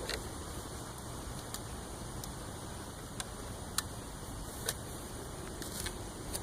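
Steady background hiss broken by about five short, sharp clicks or taps, the loudest a little past the middle.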